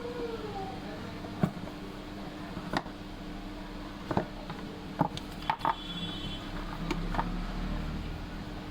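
A handful of separate sharp clicks and taps, about seven spread over several seconds, over a steady low hum.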